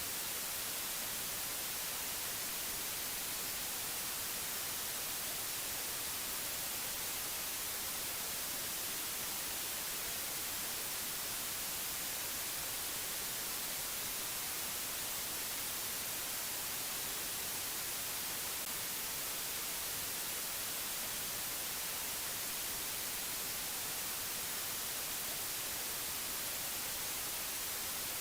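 Steady white-noise hiss, even and unchanging, strongest in the treble.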